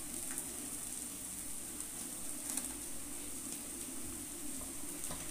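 Onion-tomato masala frying gently in oil in a kadhai: a faint, steady sizzling hiss, with a low steady hum underneath and a few faint clicks.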